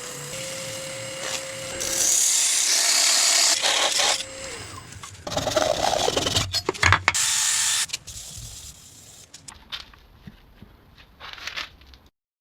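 Electric power tool working wood: its motor runs at a steady pitch and winds down about four and a half seconds in, with a loud rasping stretch while it is on the wood. Then more scraping with a few knocks, growing fainter, before the sound cuts off near the end.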